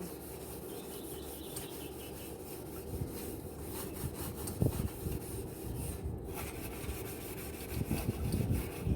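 Barbecue grill parts being scrubbed by hand, a continuous rapid rubbing and scraping, with a few louder knocks about halfway through and near the end.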